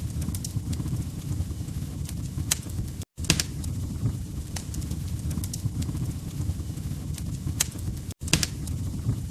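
Log fire crackling, with scattered sharp pops over a steady low rumble of the flames. The sound cuts out abruptly for an instant twice, about three seconds in and again near the end.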